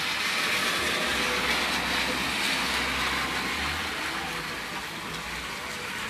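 Hard rain falling steadily, a dense even hiss. A low rumble runs underneath from about one second in and fades out before four seconds.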